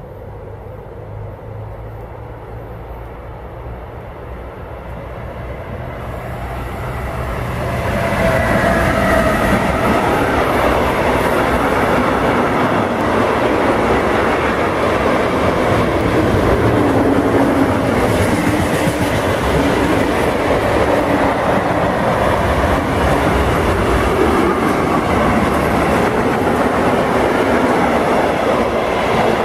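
Freight train of tank wagons approaching and passing close by. The sound of the wheels on the rails grows over about the first eight seconds, then holds loud and steady as the wagons go past.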